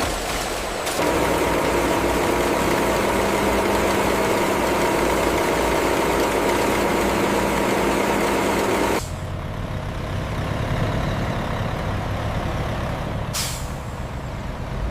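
Heavy truck engine running: a loud steady drone that cuts off abruptly about nine seconds in, leaving a lower rumble, then a short air hiss near the end like an air brake releasing.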